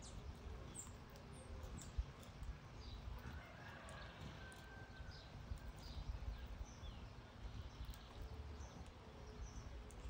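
Faint, scattered short high chirps and down-sliding calls of birds over a low rumble, with a thin held whistle in the middle.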